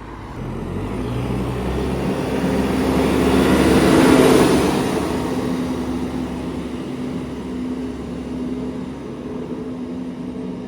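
Diesel bus pulling away and driving past, loudest about four seconds in, then its engine running on steadily as it moves off.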